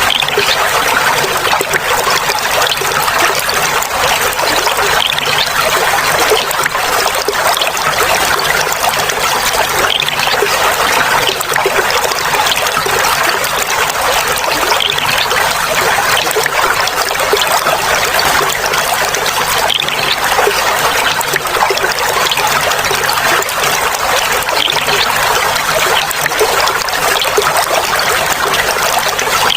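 Clear water trickling and splashing over stones, steady and unbroken.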